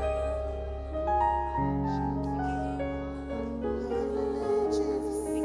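Worship keyboard playing slow held chords, moving to a new chord about every two seconds.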